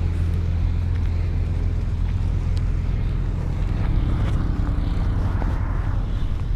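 Heavy earthmoving machine's diesel engine running steadily with a deep low hum, a few faint clicks and clanks over it.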